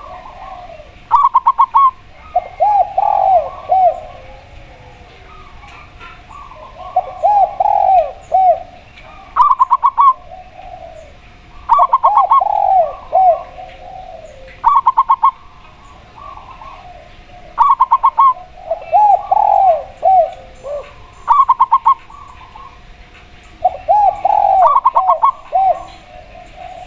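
Spotted dove and zebra dove calling in turn. Short bursts of rapid, higher staccato notes from the zebra dove alternate with lower, rounded coo phrases from the spotted dove, each repeating every few seconds.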